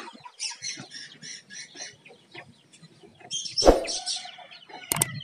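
Sumatran betet parakeet calling: a rapid run of short, high chirps, then a louder burst of shrill squawks about three and a half seconds in, with a sharp knock at the same moment.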